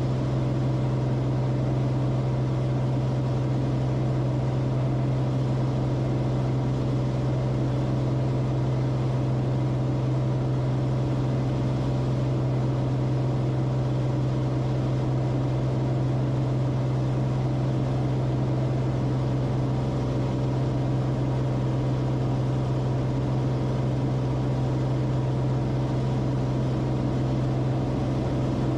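Cabin drone of a Cessna Corvalis TTX's turbocharged six-cylinder engine and propeller, running at a steady power setting with no change in pitch or level.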